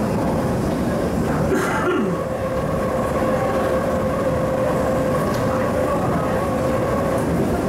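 Refurbished MTR East Rail Line Metro-Cammell (MLR) electric train running on the line: rumbling running noise with a steady two-note whine from the traction equipment, and a brief falling tone about two seconds in.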